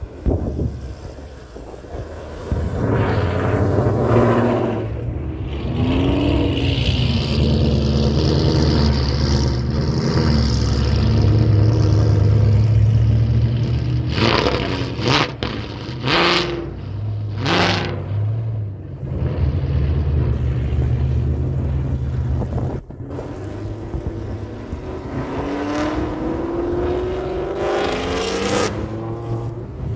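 Loud high-performance car engines revving and running hard, with a few sharp cracks around the middle and an engine note rising near the end.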